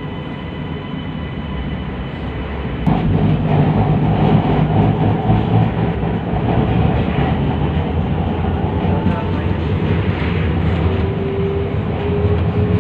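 Interior of an MRT train as it moves off. There is a sharp knock about three seconds in, then the running noise grows louder, with a faint electric motor whine climbing in pitch as the train speeds up.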